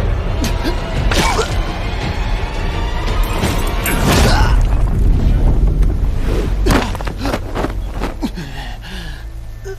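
Animated fight sound effects: heavy booms and hits over background music, thinning out in the last couple of seconds.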